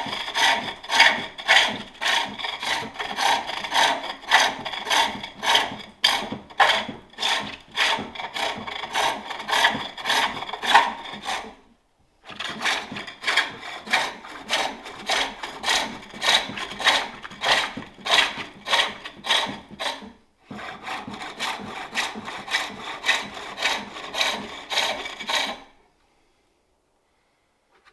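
Steel turning tool cutting a wooden bowl on a spring pole lathe, a rasping cut on each treadle downstroke as the work spins one way, then a gap as the pole returns it: about two strokes a second. The stroking runs in three bursts with brief pauses and stops a couple of seconds before the end.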